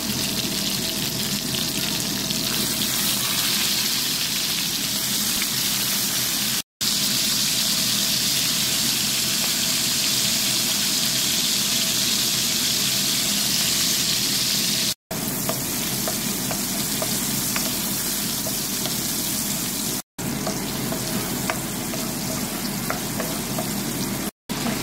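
Hot oil sizzling steadily as chicken thighs fry in a nonstick pan, then as sliced onion, garlic and pepper are stir-fried with a wooden spoon. The sizzle is broken by four brief silences.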